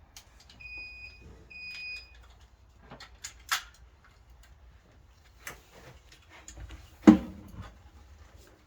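Battery charger beeping twice, two short high-pitched tones, as it is hooked up to the car battery. A few scattered clicks follow, and a single loud knock about seven seconds in.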